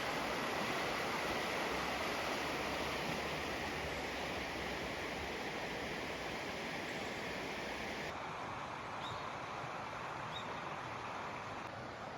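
Steady, even rushing noise that turns duller and a little quieter about eight seconds in. A few short, faint bird chirps come near the end.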